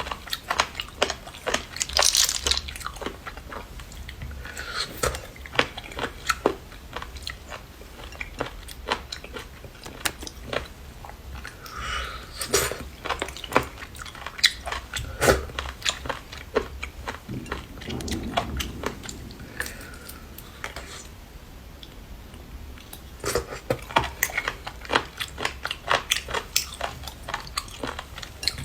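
Close-up sounds of a person biting and chewing seafood: many sharp crunchy snaps and wet mouth sounds, busiest near the start and again near the end, sparser in between.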